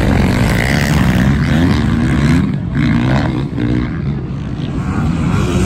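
Dirt bike engines racing by, their pitch rising and falling as the riders work the throttle.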